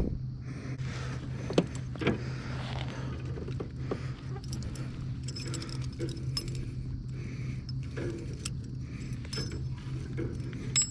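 Light metal clinking and jingling of fishing tackle as a bass is unhooked from a barely hooked lure, a series of irregular small clicks over a steady low hum.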